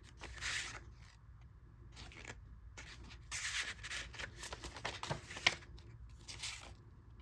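Paper pages and journaling cards rustling and sliding as they are handled and turned over, in several short bursts with pauses between, and one sharp tap about five and a half seconds in.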